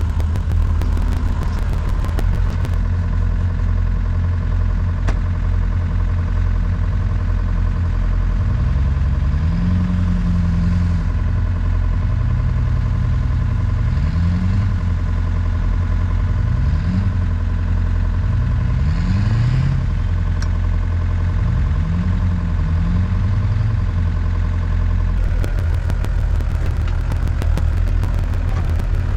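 Engine running steadily, with a second, lower engine note rising and falling several times in the middle, as in repeated revving.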